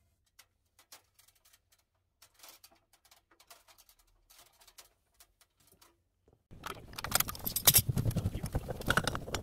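A few faint scattered clicks, then about two-thirds of the way in a sudden loud clattering and jangling of small hard objects being handled.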